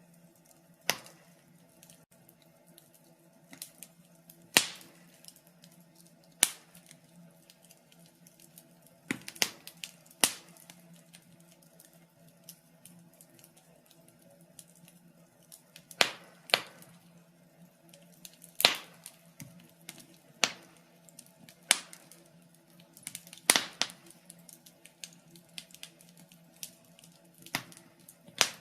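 Wood fire crackling in a fireplace: sharp, irregular pops and snaps every second or few seconds over a faint steady low hum.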